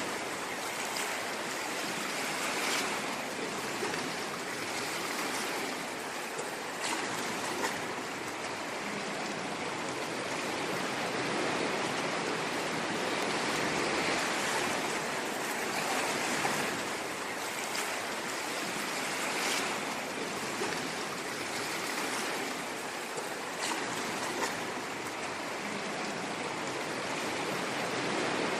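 Ocean waves washing on a shore: a steady rushing hiss that swells and eases gently, with a few brief fizzing crackles.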